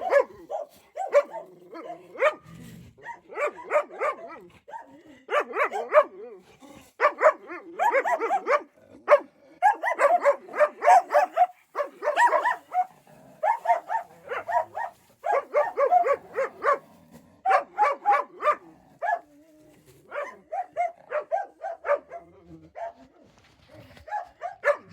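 Dogs barking in rapid volleys, one burst of quick barks after another with short pauses between them.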